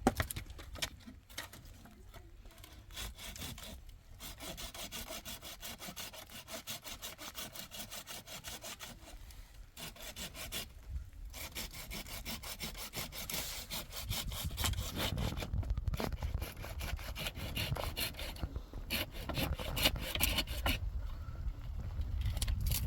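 Hand sawing: quick back-and-forth strokes in a steady rhythm, broken by a few short pauses.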